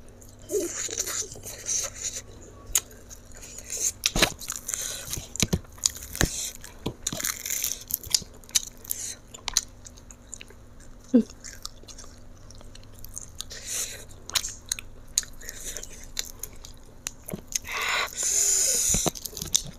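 Close-miked mukbang eating: a person chewing a handful of rice and fried fish with wet smacks and sharp mouth clicks. Near the end comes a louder hissing sound lasting over a second.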